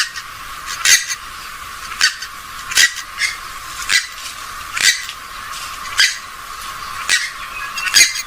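Recorded calls of a gallinule (swamphen or moorhen type): short, sharp squawking calls repeated about once a second, sounding thin with the low end cut away.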